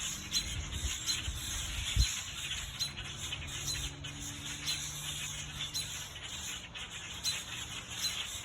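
Small birds chirping over and over, alarm calls of birds mobbing a hawk that has caught one of their flock. A single thump sounds about two seconds in.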